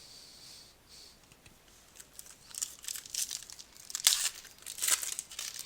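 Plastic foil wrapper of a trading card pack crinkling and tearing as it is ripped open, in a series of crackly bursts that start about halfway in and are loudest near the end.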